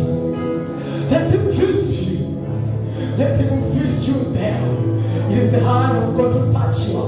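Worship music playing: a band with steady bass notes and voices singing.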